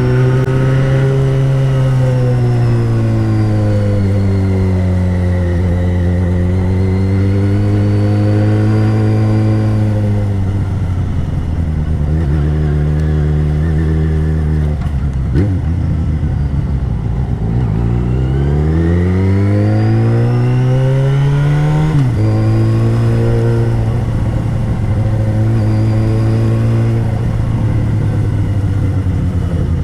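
2013 Yamaha XJ6's 600cc inline-four engine running while the bike is ridden. Engine speed eases down and back up in the first third, then holds lower. About two-thirds of the way in, the engine climbs in a long rising pull that drops off sharply at a gear change, then holds steady.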